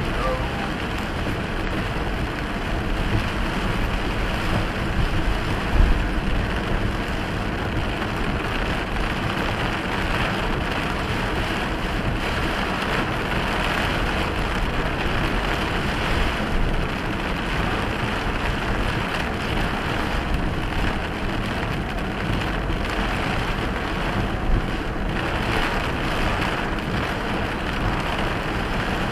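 Heavy rain pelting the windshield and roof of a slowly moving vehicle, heard from inside the cab, over the low road noise of tyres on a dirt road. A couple of brief knocks stand out, one about six seconds in and one near the end.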